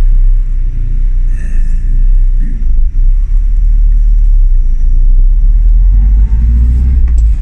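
Classic Mini's A-series four-cylinder engine idling steadily with a low rumble, running after a hard cold start following three months unused; the points ignition had to be polished before it would fire cleanly.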